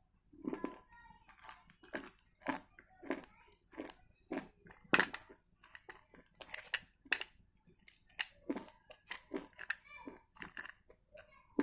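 Close-miked biting and chewing of hard pieces of edible clay: a run of sharp, irregular crunches, the loudest about five seconds in.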